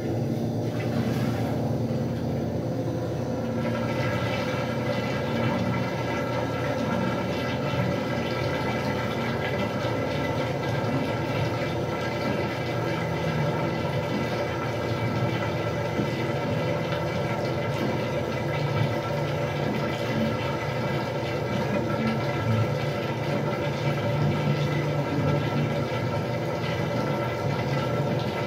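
Westinghouse washing machine running: a steady motor hum with a rush of water. It starts abruptly and holds even.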